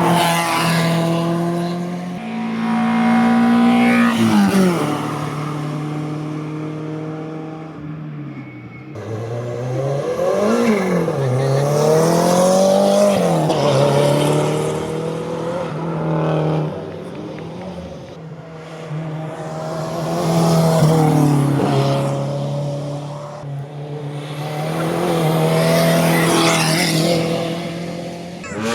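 Race car engines at full throttle, the pitch climbing through each gear and dropping at the shifts and on braking. The sound swells and fades several times as cars pass.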